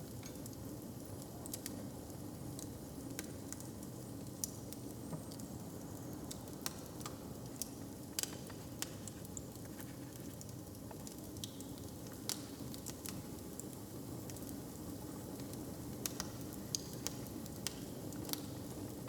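Wood fire crackling, with irregular sharp pops over a steady low rumble; the pops come a little more often near the end.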